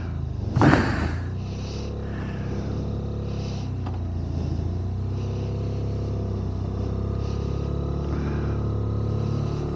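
Motorcycle parallel-twin engine running steadily at low revs. There is a short loud burst of noise about half a second in.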